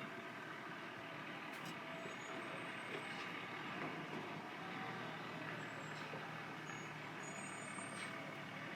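Steady outdoor background noise, an even low rush with no clear events, with a few faint, short, high-pitched tones near the middle and toward the end.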